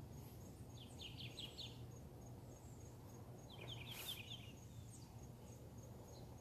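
A bird twice gives a short, rapid run of five or six high chirps, about a second in and again near four seconds, over a faint steady low hum and a faint, evenly repeating high ticking.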